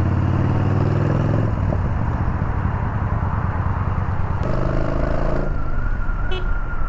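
Yamaha Bolt's air-cooled V-twin engine running under way in traffic, with wind and road rush on the microphone. The engine note comes and goes as the throttle changes.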